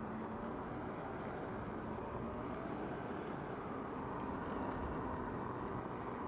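Steady road and motion noise of a moving vehicle, with a faint steady hum.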